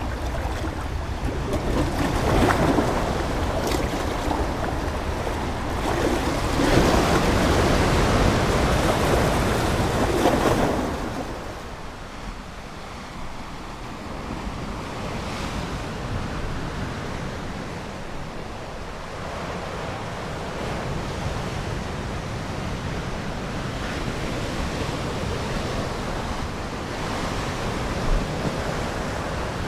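Ocean surf: waves washing in, with two louder surges in the first part and then a quieter, steady wash.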